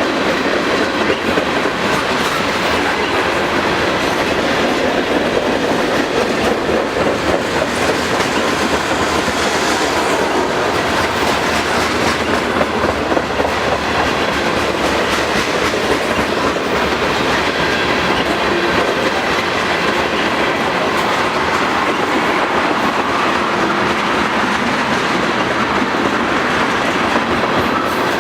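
Freight train rolling past at a steady pace, the steel wheels of its cars clicking over rail joints in a continuous rumble.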